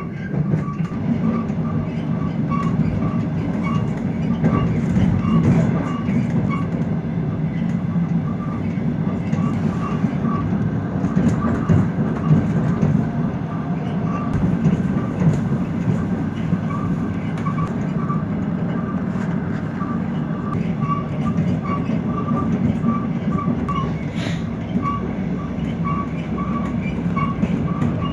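Diesel passenger train running at speed, heard from inside the carriage: a steady low rumble of engine and wheels on the rails, with a light regular ticking about three times a second.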